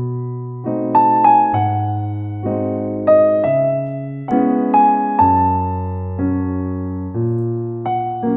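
Background music: a gentle piano piece, chords and a slow melody over bass notes, each note struck and fading.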